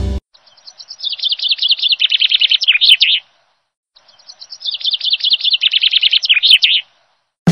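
Songbird song: a quick run of high chirping notes that grows louder into a fast trill, about three seconds long, heard twice in the same form with dead silence between.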